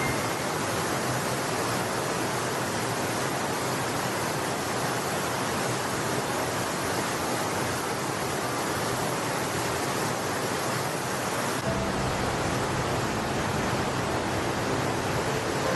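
Mountain stream rushing steadily, a loud even wash of water noise. Soft background music comes in under it about twelve seconds in.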